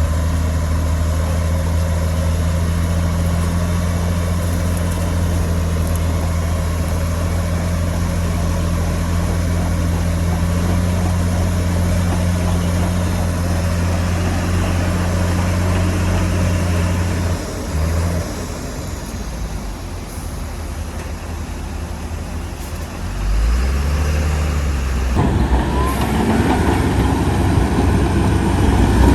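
Heavy diesel engine of earthmoving machinery running steadily, then dropping away about two-thirds of the way through. An engine note then rises, and the sound grows louder and rougher near the end.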